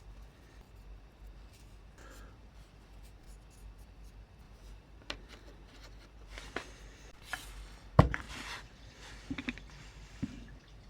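Scattered light clicks, taps and brief scraping of small parts being handled, with one sharper knock about eight seconds in.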